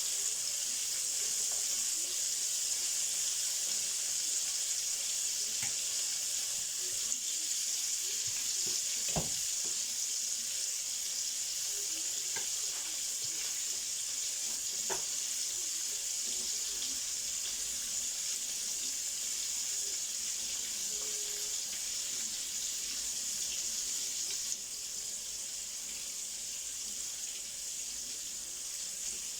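Flour-coated chicken strips frying in hot oil in a pan: a steady sizzle, with a light knock about nine seconds in. The sizzle drops a little about 24 seconds in.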